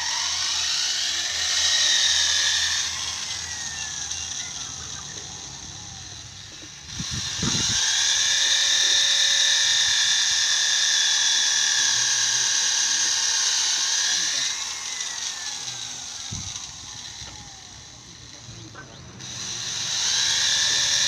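Electric hand drill boring into wood in three long runs, its high whine spinning up and running steadily, then falling away as it winds down between holes. There are dull knocks at about 7 and 16 seconds in.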